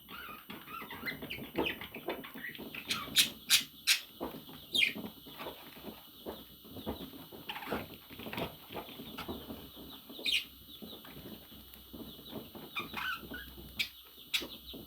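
Pet parrot making short chirps and squawks that fall in pitch, among many sharp clicks and taps, the loudest a quick run of clicks a few seconds in.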